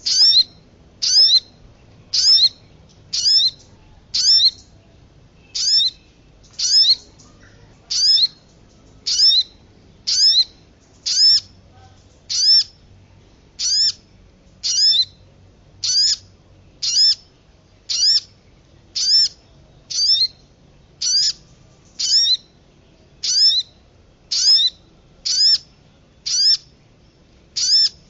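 Bird-lure recording of a small songbird's call: one sharp, high-pitched note repeated about once a second, each a quick downward slide.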